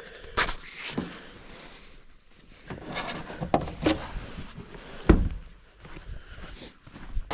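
A series of irregular knocks and clunks with rustling between them, the loudest a heavy thump about five seconds in.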